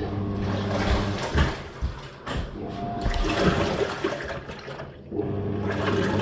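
Top-load washing machine running with water sloshing and rushing, and its motor humming in two spells: one for the first couple of seconds and one again near the end.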